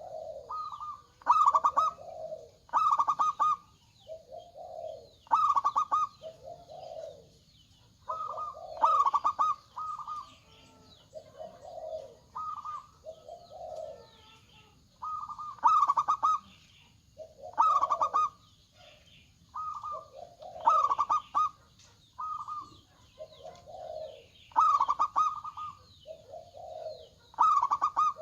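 Zebra dove (perkutut) cooing over and over. Each phrase pairs clipped higher notes with lower, rounder coos, repeating every second or two.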